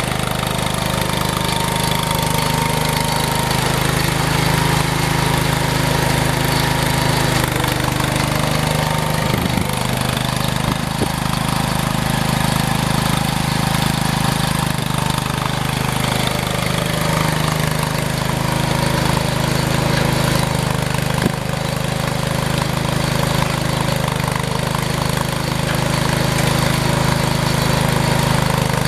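An engine running steadily, its pitch dipping and recovering a couple of times as the load changes, with a few short knocks.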